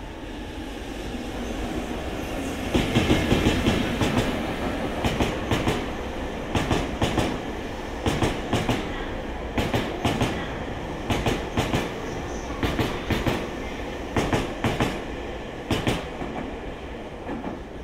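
Train passing close by: the EF65 electric locomotive and the Toei 6500-series subway cars it hauls. The sound grows over the first few seconds, then wheels click over rail joints in clusters about every second and a half as each car goes by.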